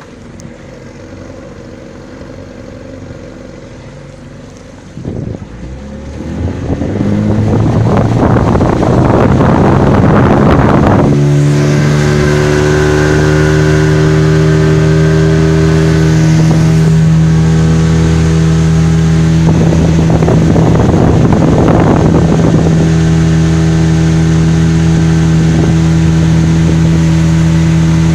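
Suzuki DT 30 two-stroke outboard motor opened up from low speed about six seconds in, its pitch rising for several seconds, then running steadily at high revs. There is a rush of wind and water over it.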